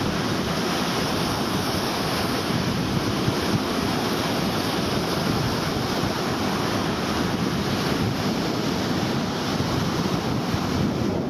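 Steady wind blasting the microphone, a continuous rushing with gusty low buffeting, over the wash of sea surf.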